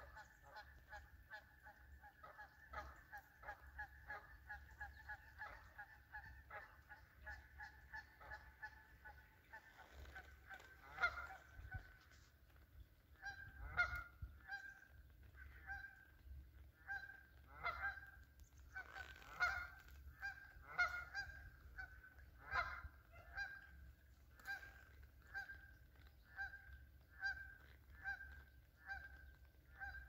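Birds calling over and over with short, pitched calls, quick and close together at first, then slower, about two a second, and louder from about halfway through.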